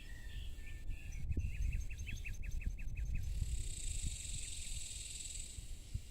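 A bird singing a quick series of about ten short, falling notes, followed by a steady high insect buzz lasting about two seconds, over a low rumble.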